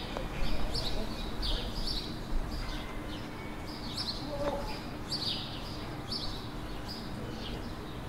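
Birds chirping in a tree: a steady run of short, high, falling chirps, about two a second.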